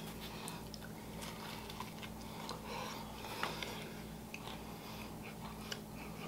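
A person chewing a bite of baked stromboli with the mouth closed: faint, soft mouth clicks scattered throughout, over a steady low hum.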